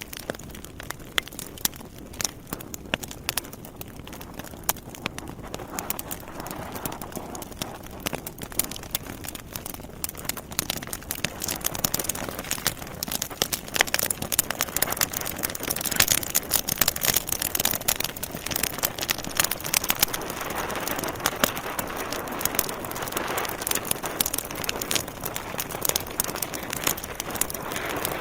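Burning logs in a fireplace crackling, with many sharp pops and snaps over a steady hiss of flame. The crackling grows louder and busier about twelve seconds in.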